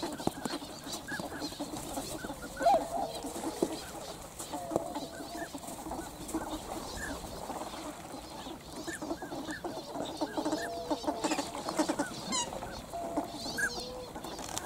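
A flock of swans and ducks calling, many short honks and calls overlapping without pause.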